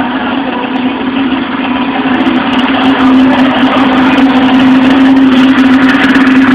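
Polaris XC 600 snowmobile's two-stroke twin engine running steadily, getting louder about two seconds in as the revs come up.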